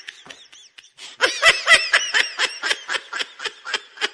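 A person laughing: a run of quick pitched pulses that starts about a second in and trails off near the end.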